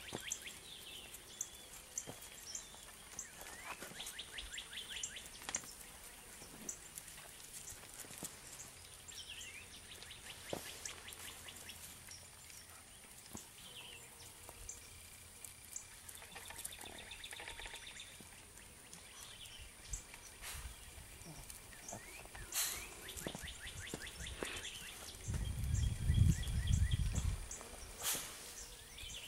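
Outdoor ambience of small birds chirping on and off, over a faint steady high hiss, with scattered light clicks. A low rumble on the microphone comes near the end and is the loudest sound.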